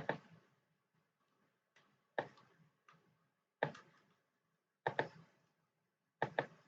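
Computer mouse clicking: sharp clicks roughly every second and a half, several in quick pairs of press and release.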